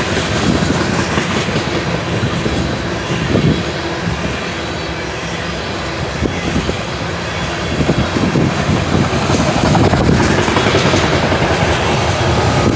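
Coal hopper cars rolling past on the rails: a steady loud rumble of steel wheels with clickety-clack and clunks over the rail joints. It grows louder over the last few seconds as the rear locomotives draw near.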